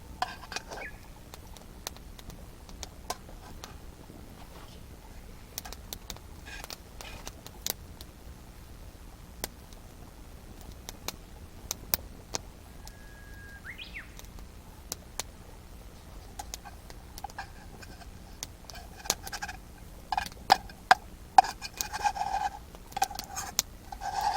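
Campfire wood crackling: scattered sharp snaps and pops throughout, busier near the end. A short chirp that glides upward sounds about halfway through, and a run of short pitched calls comes near the end.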